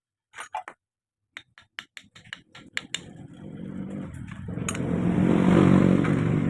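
A quick series of sharp mechanical clicks, then a motorcycle engine running as it passes by, growing louder toward the end.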